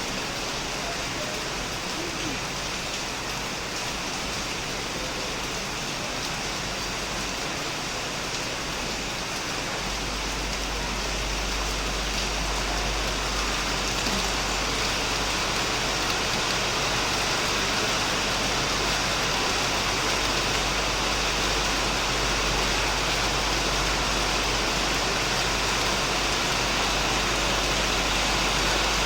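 Heavy rain falling steadily on a shed roof and plants, a dense even hiss that grows slightly louder, with a low rumble joining about ten seconds in.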